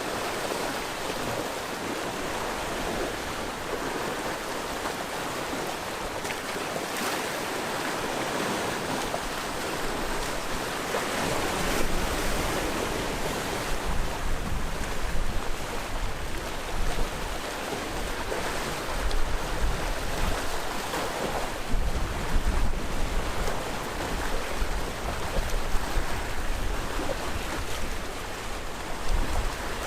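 Sea waves washing on the coast in a steady rush of surf. From about eleven seconds in, wind buffets the microphone, adding a low rumble and uneven loudness peaks.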